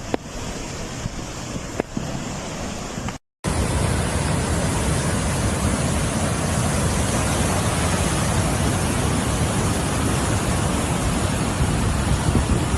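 Floodwater rushing in a steady, even roar. It is quieter with a few clicks at first, and after a short break about three seconds in it is louder and constant.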